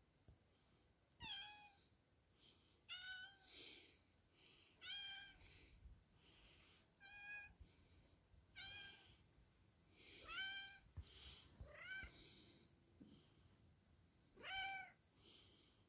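A cat meowing over and over, about eight short calls roughly two seconds apart.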